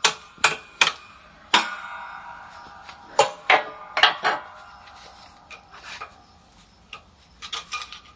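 Hammer blows on the track bar's Enduro joint, driving the new polyurethane bushing cup and ball into the housing. Each strike rings metallically: about eight hard blows over the first four and a half seconds, then a few lighter taps near the end.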